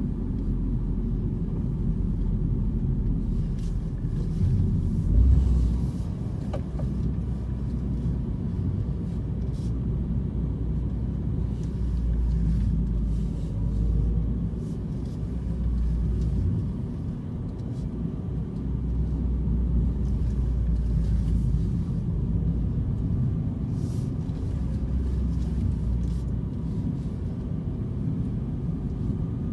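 Renault Clio RS running with a steady low rumble, with short knocks coming at irregular intervals: the knocking sound the owner is trying to record.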